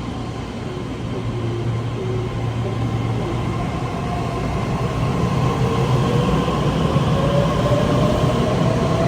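Taiwan Railway train running, its rumble growing steadily louder, with a faint whine that rises in pitch through the second half.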